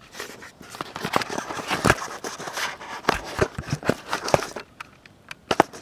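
Irregular clicks, knocks and rustling, like things being handled close to the microphone.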